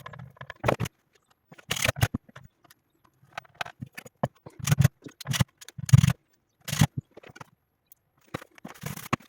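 Irregular knocks, clicks and scrapes of parts being handled, about a dozen separate strikes with quiet gaps between, several carrying a dull thud and the loudest near the middle.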